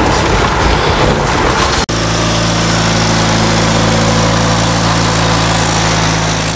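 An engine running steadily at an even pitch with a hiss over it, after an abrupt cut about two seconds in from a rougher, noisier rumble.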